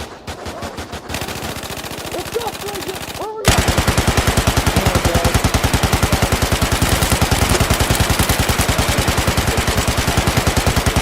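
Automatic gunfire: a brief rapid burst at the start, then from about three and a half seconds in a loud, sustained stream of rapid machine-gun fire that runs on without a break.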